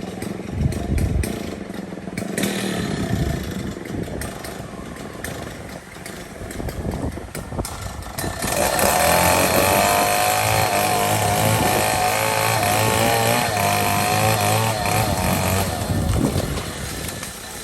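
A small engine runs from about eight seconds in, its pitch wavering up and down for several seconds before it fades near the end. Before it there is only a rough, noisy background with scattered knocks.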